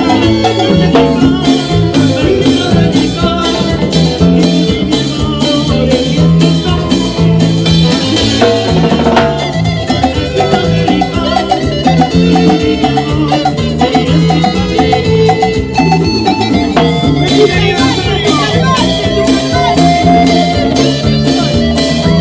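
A Latin dance band playing salsa-style music, with drums and percussion keeping a steady, busy beat under bass and melody instruments.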